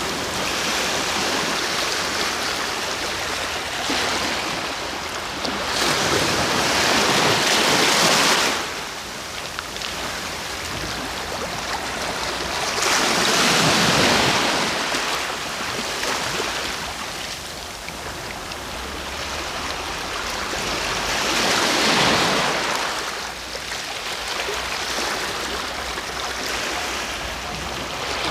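Ocean waves breaking on the shore: three larger waves swell and crash, about six seconds, thirteen seconds and twenty-one seconds in, and between them the surf keeps up a steady wash.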